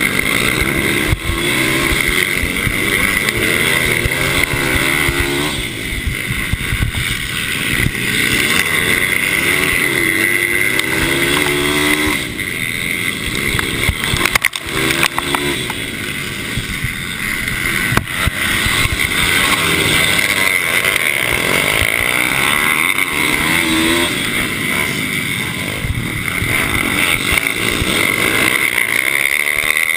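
Mini motorcycle engines racing, revving up and down in repeated rising and falling sweeps, with several bikes heard at once.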